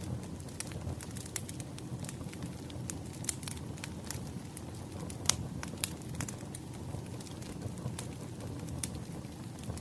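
Wood fire crackling: irregular sharp pops and snaps over a low steady rush of burning logs. The loudest pop comes a little past halfway.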